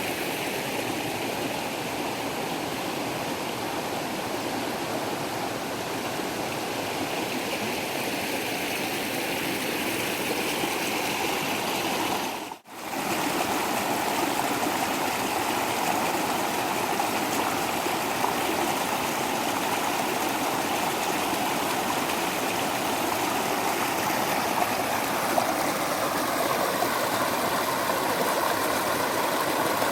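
A waterfall's water rushing and splashing steadily. It drops out for an instant about twelve seconds in, then resumes unchanged.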